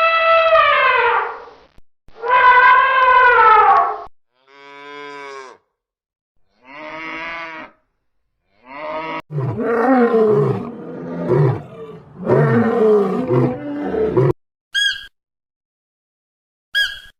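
A run of different animal calls: two long calls falling in pitch, two quieter pulsing calls, then a big cat's repeated rough growling roars for about five seconds, and two short high chirps near the end.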